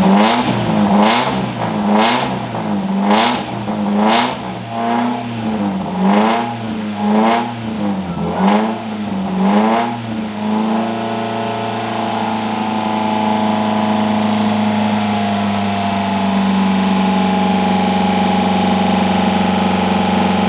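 Freshly rebuilt Mazda Miata four-cylinder engine just after its first start, revved by hand about once a second for some ten seconds, then held at a steady fast run. It is kept off idle while the new engine builds oil pressure at the start of break-in.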